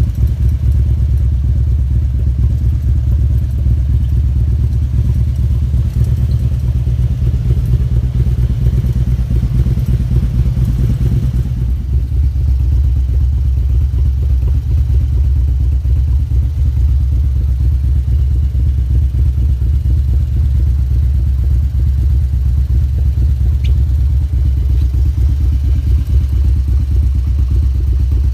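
Harley-Davidson V-twin engine idling steadily while parked, being warmed up. Its low note shifts slightly about twelve seconds in.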